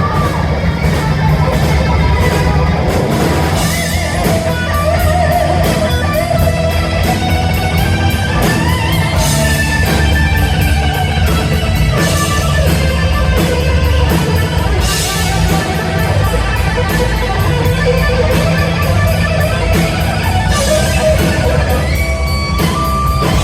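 Live hard-rock band playing an instrumental passage without vocals: distorted electric guitar playing a bending lead line over drums and bass.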